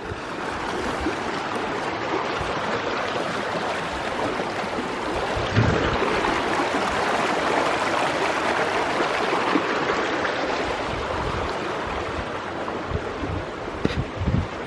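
Mountain stream rushing steadily, a little fuller in the middle. A low thump comes about six seconds in, and a few more near the end.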